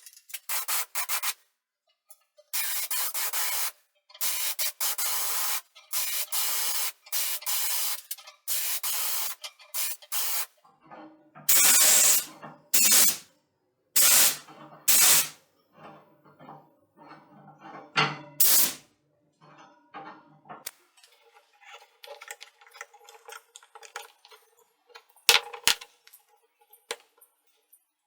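Aerosol spray can spraying in a series of short bursts of about a second each with brief pauses between. The bursts give way to scattered clicks and light handling near the end.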